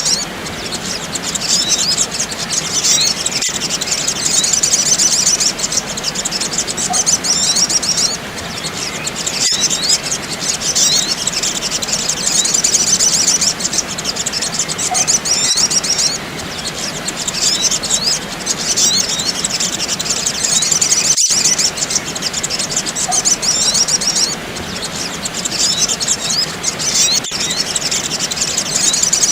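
Small birds twittering in fast, high-pitched chirps, a lure recording of sogok ontong calls, in dense runs that break off briefly every several seconds.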